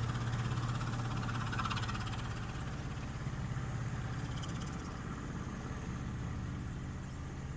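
An engine running steadily with a low, even hum, fading slightly over the few seconds.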